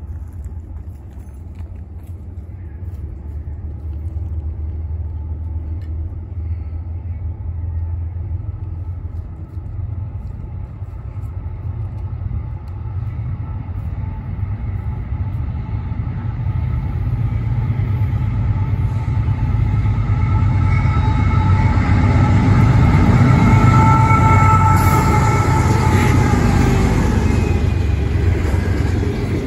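Diesel-hauled Norfolk Southern freight train approaching a grade crossing and passing: a deep engine rumble builds steadily louder, and the horn's chord of several notes grows through the second half and cuts off shortly before the end. It gives way to the rumble of freight cars rolling past.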